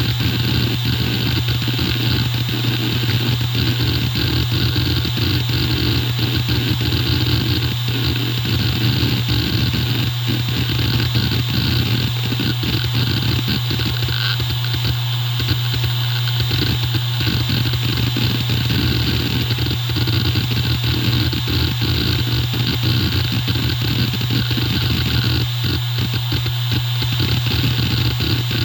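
Hitachi Deskstar E7K500 7200 rpm hard drive running: a steady spindle hum with the heads seeking, making a dense, irregular rattling chatter.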